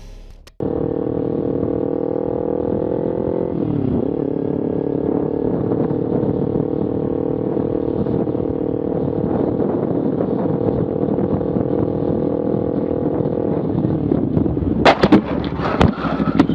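Motorcycle engine running at a steady speed, its pitch dipping and recovering once about four seconds in. Near the end it is cut across by several sharp bangs and clatter, like impacts.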